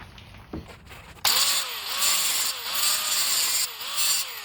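A few quiet knocks, then just over a second in a cut-off wheel starts cutting into the steel truck frame. It is loud and gritty, with a whine that dips and recovers about twice a second as the wheel is pressed into the metal.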